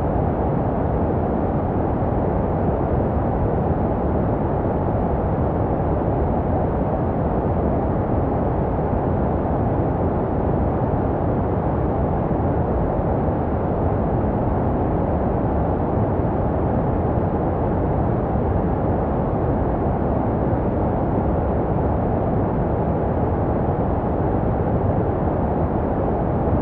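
Steady, unchanging white noise for soothing a baby to sleep, deep and muffled like a low rushing hiss, made to resemble the sound heard in the womb.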